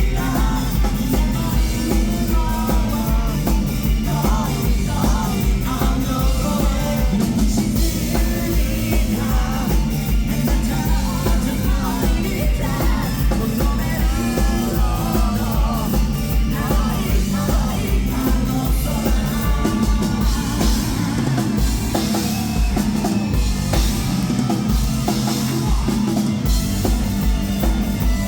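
Live rock band playing loud, with a pounding drum kit, bass and guitars under a lead singer, recorded from the audience.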